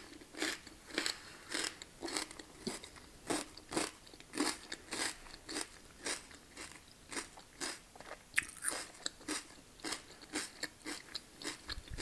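Close-up crunching and chewing of loaded tortilla chip nachos, with many short sharp crunches about two or three a second.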